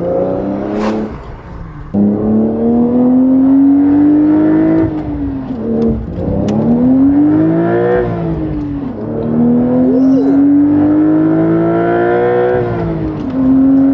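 Porsche 992 Carrera T's twin-turbo 3.0-litre flat-six, with a titanium valved exhaust and its valves open, pulling hard through the gears. The engine note climbs steadily in pitch, then drops sharply at each upshift, three or four times, reaching about 7,000 rpm.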